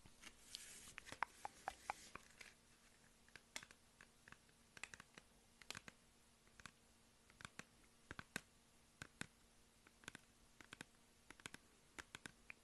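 Quiet, close-miked mouth sounds from eating ASMR: soft, irregular clicks and smacks, with a short rustle in the first two seconds.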